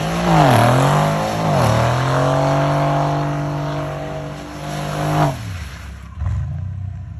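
A car engine revving in quick rises and falls, then held at high revs while the tyres spin and skid through a drift spin. About five seconds in the revs drop away, and the engine settles to a lower steady run.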